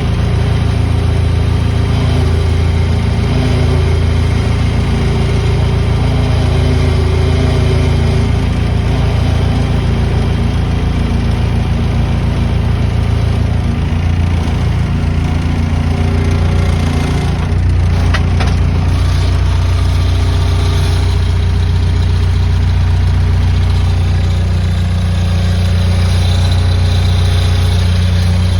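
Skid loader engine running steadily as it moves the sawdust wagon, with a low drone that drops to a deeper, steadier note about seventeen seconds in. A brief sharp click comes just after the change.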